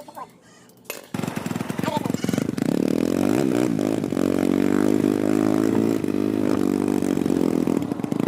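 Hero Splendor's single-cylinder four-stroke motorcycle engine, freshly rebuilt at the top end, starting up about a second in and then running steadily, its pitch wavering slightly.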